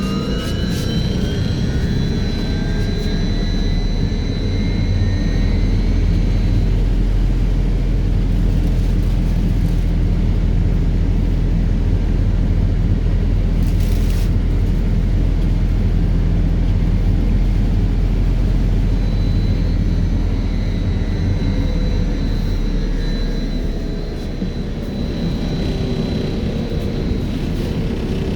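Belkommunmash BKM 32100D trolleybus under way, heard from inside: the electric traction drive's whine climbs in pitch as it pulls away and then fades, over a steady heavy rumble of road and body noise. A short hiss comes about halfway, and high whine tones return near the end.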